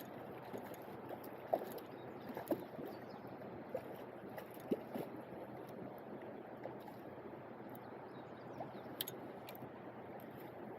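Steady rush of flowing river water, with a scattering of small sharp clicks and splashes.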